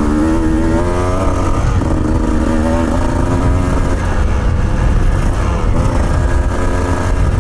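Off-road motorcycle engine revving and running on a rutted dirt track. The engine note rises right at the start, climbs again about two seconds in, then holds steadier over a constant low rumble.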